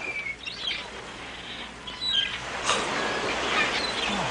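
Birds chirping and calling, with a steady rushing noise that comes in nearly three seconds in.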